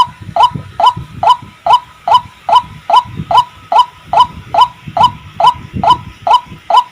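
White-breasted waterhen calling: one short rising note repeated evenly, about two and a half times a second, in a long monotonous series.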